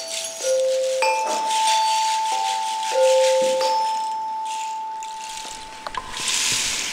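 Children's classroom percussion music: single notes struck on tuned metal bars ring on for a second or more, over a shaker-like rattle. A short swell of rattling comes near the end.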